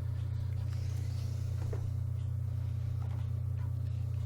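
A steady low hum, with faint rustling of book pages being handled.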